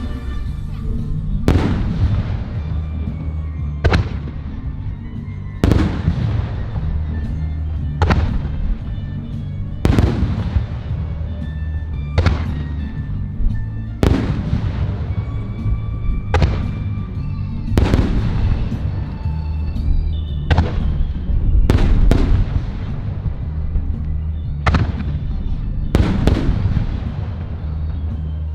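Aerial firework shells bursting about every two seconds, each sharp bang trailing off as it fades, over music with a steady bass line.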